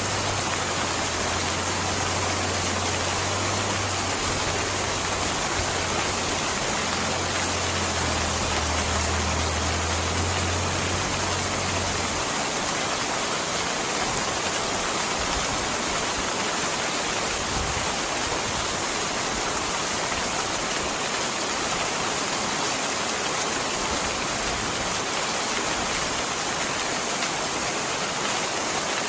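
Steady rain, an even hiss of falling water with no let-up. A low rumble sits under it for about the first twelve seconds, then stops.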